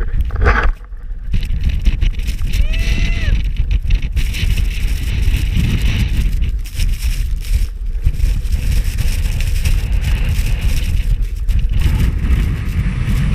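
Strong gusting wind buffeting the microphone: a loud, rough low rumble that rises and falls with the gusts.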